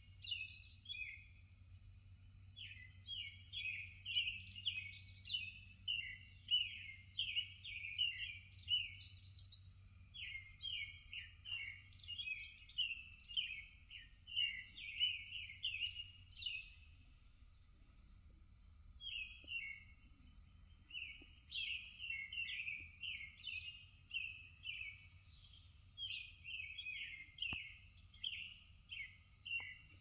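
A songbird singing: phrases of quick, clear chirping notes, each phrase a few seconds long with short pauses between, over a faint steady low hum.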